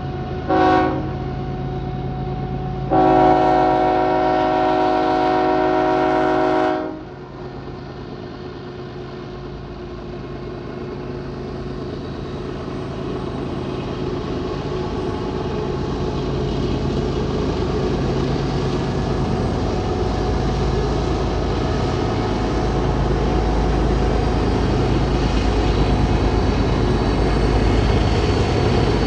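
Diesel freight locomotive horn sounding several tones together: a short blast under a second in, then a long blast of about four seconds. After it, the low rumble of the locomotives grows steadily louder as the train comes closer.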